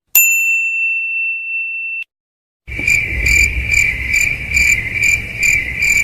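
A steady high-pitched beep lasting about two seconds and cutting off, then after a short pause, crickets chirping in an even pulse a little over twice a second over a low hum: the stock 'awkward silence' cricket sound effect.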